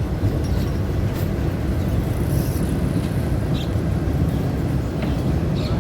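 Passenger train running, a steady low rumble heard from inside the carriage, with a few faint light ticks.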